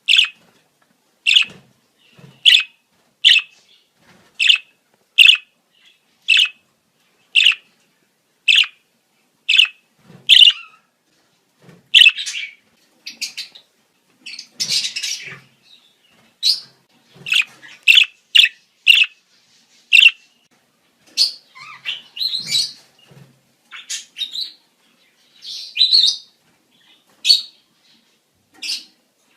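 Budgerigars' breeding-season calls: sharp chirps repeated about once a second for the first dozen seconds, then a busier, more varied run of chirps and chatter.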